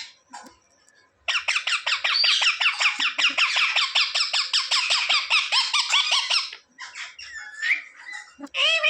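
Indian ringneck parakeet giving a rapid run of short, high-pitched squawking calls, several a second, for about five seconds. A few separate calls follow near the end.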